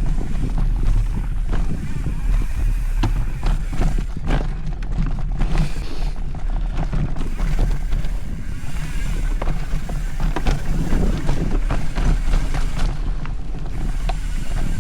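Mountain bike being ridden on a dirt trail: wind buffeting the camera microphone over a steady rumble from the tyres, with scattered clicks and rattles from the bike jolting over rough ground.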